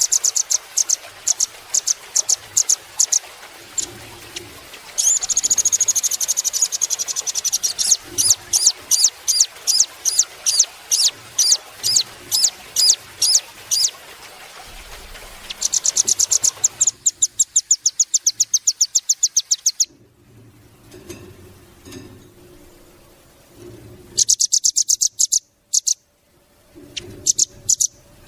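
Velvet-fronted nuthatch calling: series of sharp, high chips, now spaced about two a second, now run together into fast rattling trills, with short pauses between bouts.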